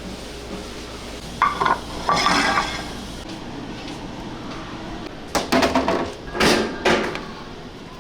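Kitchen clatter of utensils and dishes: several short bursts of clinking and knocking, with a low background hum that stops suddenly about three seconds in.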